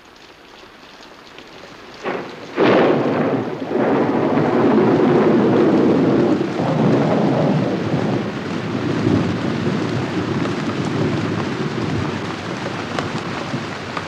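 Tropical thunderstorm: rain builds up, then a sharp crack of thunder between two and three seconds in, followed by long rolling thunder over heavy rain that slowly eases off.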